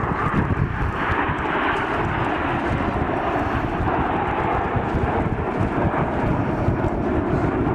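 Fixed-wing aircraft engine noise, loud and steady.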